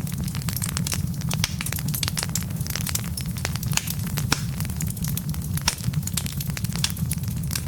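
Wood fire burning in a fireplace: frequent, irregular sharp crackles and pops from the burning logs over a steady low rumble of the flames.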